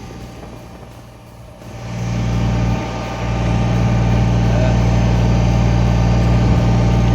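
Kubota BX23S tractor's three-cylinder diesel engine running steadily, coming up in loudness about two seconds in and then holding an even drone.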